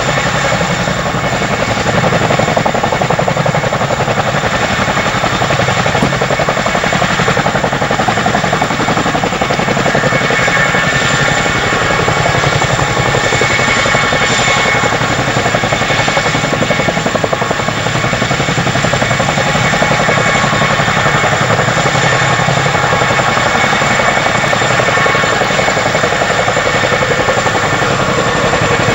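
CH-47 Chinook tandem-rotor helicopter running close by, its rotor blades beating rapidly and steadily under a constant high whine.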